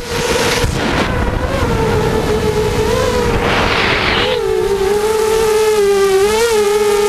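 FPV quadcopter motors running with a steady high whine whose pitch wavers and dips slightly with the throttle. Rough wind rumble runs under it in the first half, and a short burst of hiss comes about halfway through.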